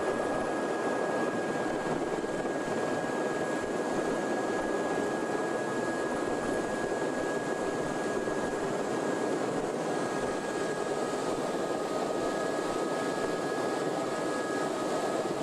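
Sightseeing helicopter's turbine engine and rotors running steadily, an even roar with a thin high whine over it; a second, lower whine joins about two-thirds of the way through.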